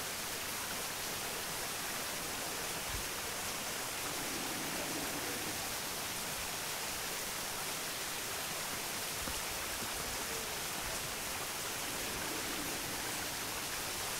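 Steady rush of flowing water from a stream or waterfall, even and unbroken.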